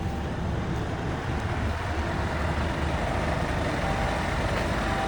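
Diesel engine of a 2014 Scania P250 box truck idling, a steady low rumble.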